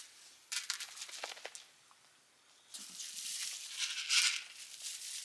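Light rustling and crinkling with scattered small clicks, a quiet pause in the middle, then louder rustling.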